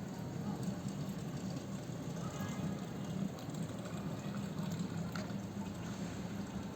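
Rainwater running in a steady wash.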